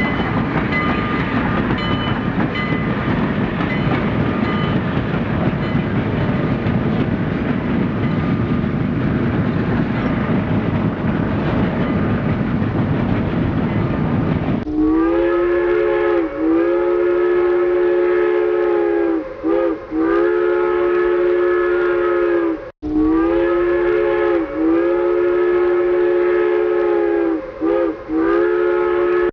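A train rolling along the rails. About halfway through, a multi-note train whistle starts sounding in long blasts, with short breaks between them, until near the end.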